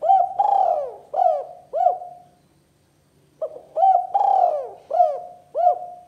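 Spotted dove (tekukur) cooing: two phrases of several short coos each, with a gap of about a second between them.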